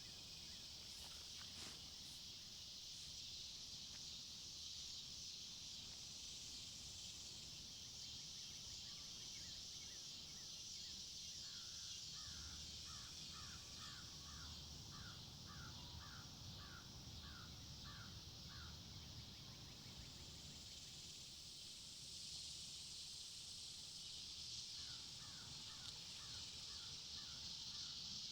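Faint woodland ambience: a bird gives two runs of short, quickly repeated calls, about two a second, over a steady high hiss.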